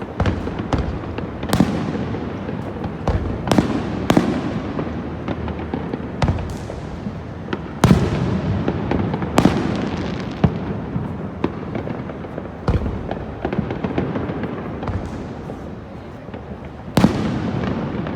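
Aerial fireworks shells bursting overhead: a dozen or more sharp booms at irregular intervals, each fading out in a long echoing tail, the loudest about eight seconds in and near the end.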